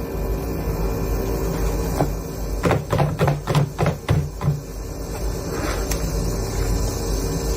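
A quick run of about seven knocks or taps, each sharp, over a second and a half or so, against a steady low hum.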